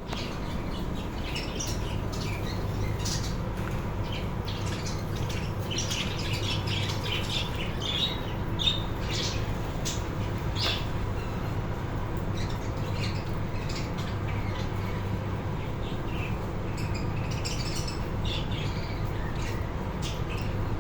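A colony of budgerigars chattering, with many short squawks and chirps overlapping, thinning out for a few seconds past the middle, over a steady low hum.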